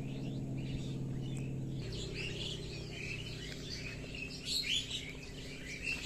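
Small birds chirping and twittering in quick, varied calls, growing busier in the second half. Underneath runs a steady low hum that drops a little in pitch about two seconds in.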